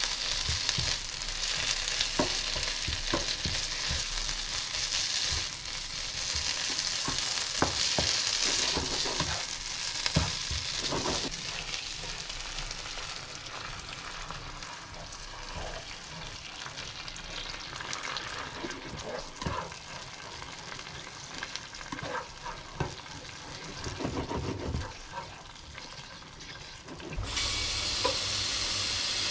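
Beef sizzling as it fries in a pan, with a spatula stirring and scraping it, and the sizzle lighter from about halfway through. About two seconds before the end this gives way to a kitchen tap running into a stainless steel pot.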